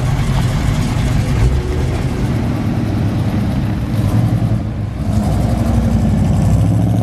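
Classic muscle-car engines pulling away at low revs: a first-generation Chevrolet Camaro SS's V8 rumbling, then, after a break about five seconds in, a Chevrolet Nova's engine running with a steadier tone as it rolls off.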